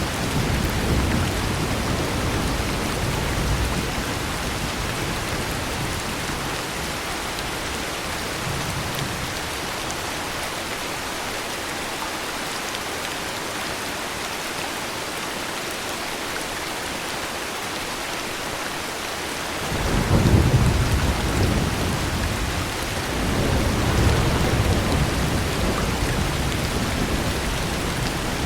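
Heavy rain falling steadily, with thunder: a low rumble dies away over the first few seconds, then a new peal breaks out suddenly about two-thirds of the way in and keeps rolling.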